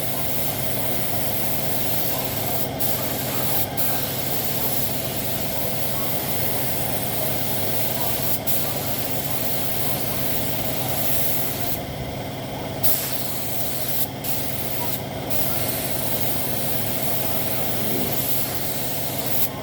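Spray gun hissing steadily as motorcycle body panels are painted. The hiss drops out briefly several times, once for about a second, as the trigger is let go. A steady machine hum runs underneath.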